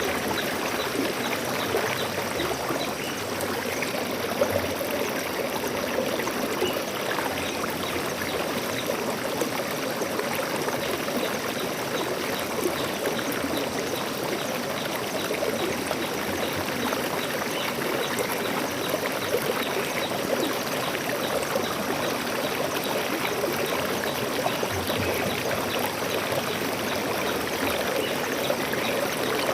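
Forest stream flowing steadily, a continuous even rush of water.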